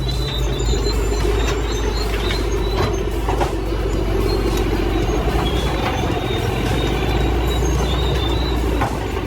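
Heavy diesel machinery engine running steadily under load, a deep constant drone with occasional high squeals and knocks on top.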